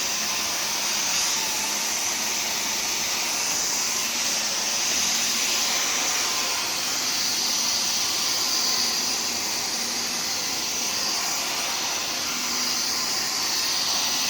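Vacuum cleaner running steadily: an even, high-pitched rushing noise with a faint hum beneath it.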